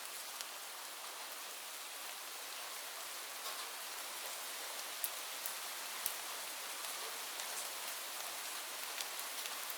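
Steady rain, an even hiss with scattered sharp drips landing close by.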